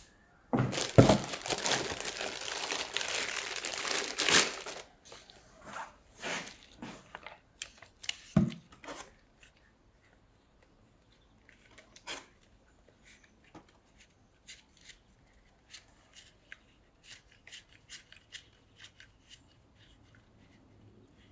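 Packaging being handled during a monitor unboxing: a loud stretch of tearing and crinkling wrapping beginning about half a second in and lasting about four seconds, then scattered small clicks and knocks of parts being handled.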